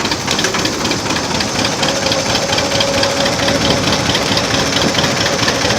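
Old engine running steadily, with a rapid, even ticking knock over a continuous mechanical clatter.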